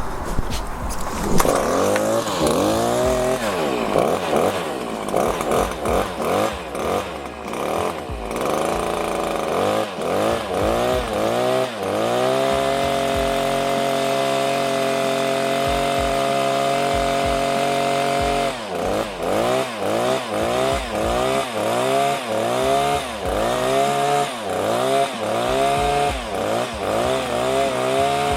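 Freshly rebuilt Stihl HS86R hedge trimmer's two-stroke engine being revved on a test run: repeated short blips of the throttle, then held at high revs for about six seconds, then a quick series of blips again.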